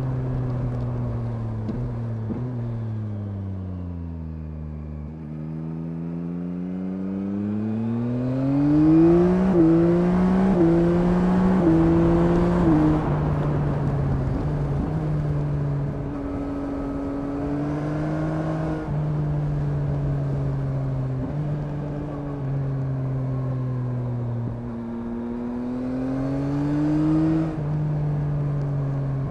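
Yamaha MT-09's inline three-cylinder engine, heard from the rider's seat. The engine note winds down over the first few seconds, then climbs in a hard acceleration with three quick quickshifter upshifts. It settles into steady cruising, then pulls again with one more upshift near the end.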